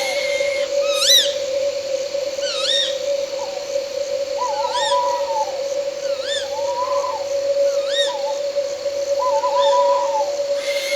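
Night owl sound effect: short rising-and-falling whistled calls repeat every second or two, with three quavering, wavering calls among them, over a steady droning insect tone.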